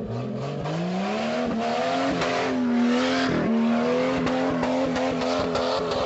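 Jeep Cherokee XJ engine revving up and then held flat out against the rev limiter, the pitch climbing for about two seconds and then staying pinned while the limiter cuts in and out in quick repeated stutters.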